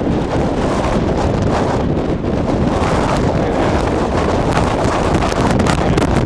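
Strong storm wind buffeting the microphone: a loud, steady rushing noise that turns into rapid crackling gusts in its second half.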